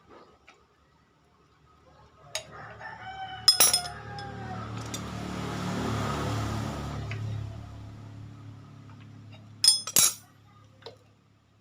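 A rooster crows about three seconds in, over a low droning hum that swells and then fades over several seconds. Sharp metallic clinks, like tools being handled, come about three and a half seconds in and again near ten seconds.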